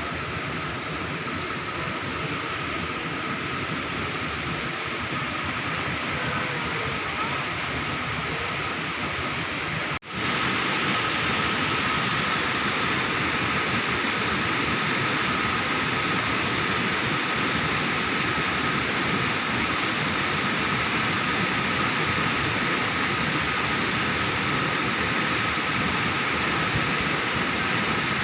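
Steady rushing of a waterfall. It breaks off abruptly about ten seconds in and resumes a little louder.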